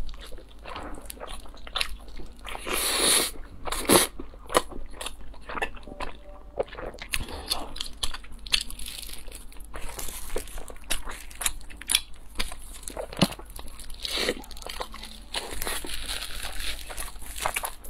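Close-up eating sounds: crisp, crumb-coated fried food being bitten and chewed, with many sharp crackling crunches, the loudest about four seconds in.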